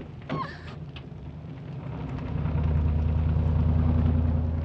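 Low rumble of a vehicle engine driving off, swelling about a second in and holding steady, with a brief cry at the very start.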